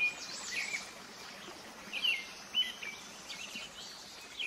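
Songbirds chirping: a series of short calls, each rising quickly and then levelling off, coming irregularly over a faint steady outdoor hiss.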